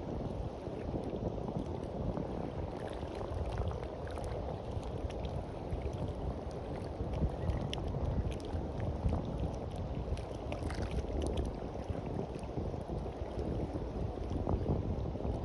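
Sea washing onto a beach in small waves, a steady rushing wash with scattered faint crackles, over a low rumble of wind on the microphone.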